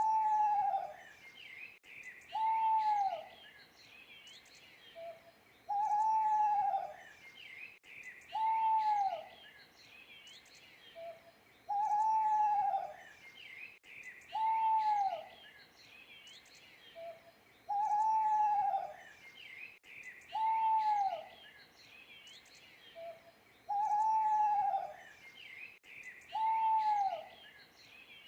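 Owl hooting in a repeating sequence of a short soft note followed by two drawn-out hoots that each fall away at the end, about every six seconds. Small birds chirp and sing throughout behind it.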